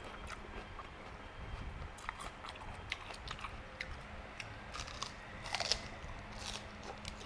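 Close-up crunching and chewing of crisp raw lettuce leaves: a run of wet, crackly crunches and mouth clicks, with a thicker cluster of crunches about five and a half seconds in as a fresh leaf is bitten.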